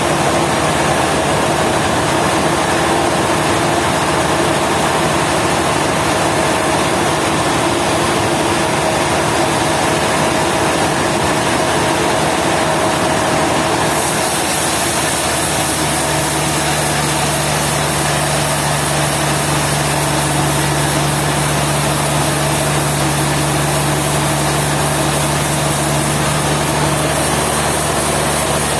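A motor-driven machine running steadily. About halfway through, its sound shifts: a brighter hiss comes in and a new low hum joins it.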